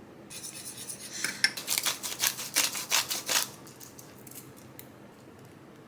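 Quick, irregular clinking and clattering of kitchen utensils against a container, lasting about three seconds, while beaten egg is readied in the egg steamer.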